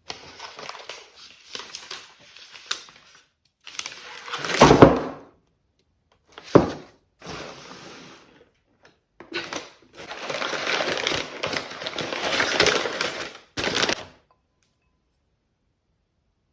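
Shopping items being handled: rustling with a loud thud about five seconds in and a sharp knock soon after as things are set down, then a longer stretch of rustling.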